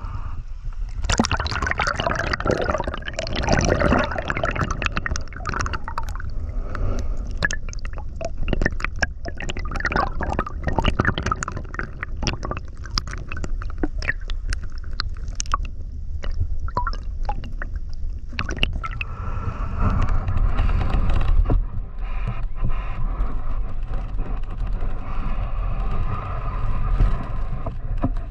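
Flowing river water gurgling, with many small splashes and clicks. Over the last third it turns steadier, with more low rumble.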